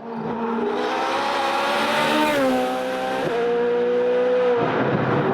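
Hillclimb race car's engine running hard at high revs, its note climbing, then dropping about two seconds in and dipping briefly about three seconds in. Near the end the engine note gives way to a rushing noise.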